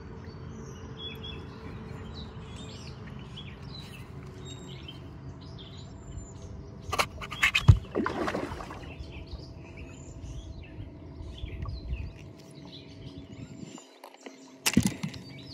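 Small birds chirping and twittering over a steady low rumble and hum. A quick cluster of sharp clicks ends in one loud knock about halfway through, and there are more sharp clicks near the end.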